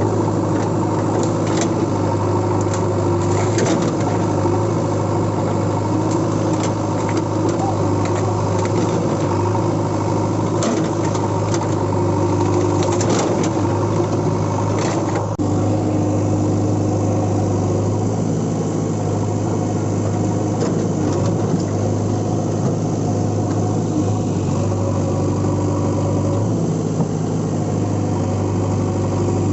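An engine-like hum running steadily at an even pitch, with scattered short clicks and knocks over the first half.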